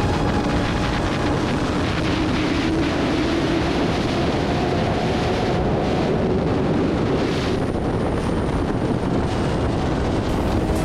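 600cc sport motorcycle running steadily at highway speed, its engine drone under a heavy rush of wind.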